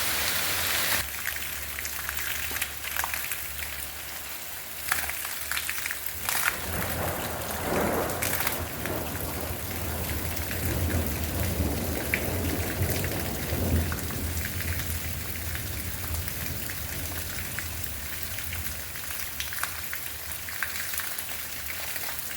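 Heavy barrage of small hail falling, a steady patter of countless pellets striking the roof and ground, with sharper individual ticks throughout. A low rumble swells and fades through the middle.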